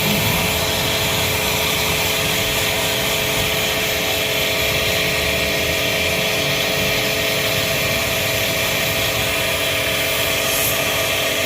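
A motor-driven machine running steadily with a constant hum and a strong, even hiss.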